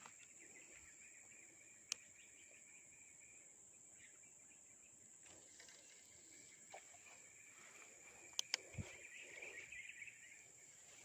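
Faint insect chorus: a steady high-pitched drone with a lower chirring trill that swells toward the end. A few sharp clicks sound about two seconds in and twice in quick succession about eight and a half seconds in.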